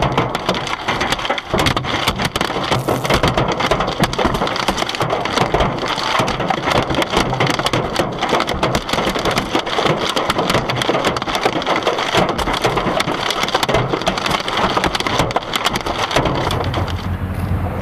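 Hailstones pelting a car in a heavy hailstorm: a dense, continuous clatter of hard impacts. About sixteen seconds in, the clatter gives way to a steady low hum.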